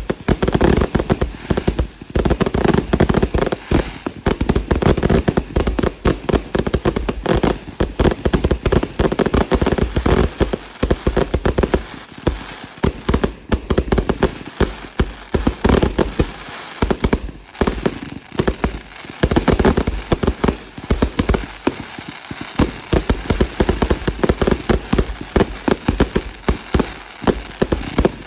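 Fireworks going off in a dense, continuous barrage: loud bangs and crackles, several a second, with no pause.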